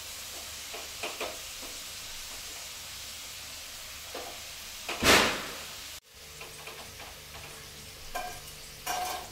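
Sweet potato pieces sizzling as they deep-fry in a steel pan, with a wooden spatula scraping and stirring them. A short loud rush comes about five seconds in, then the sizzle cuts off suddenly, leaving a few light clinks as pieces are lifted out toward a steel plate.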